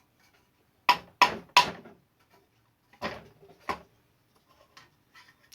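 Hard knocks and clatter from handling the air cooler's fan and motor parts while fitting the shaft nut. There are three quick knocks about a second in, two more around three seconds in, then faint small clicks.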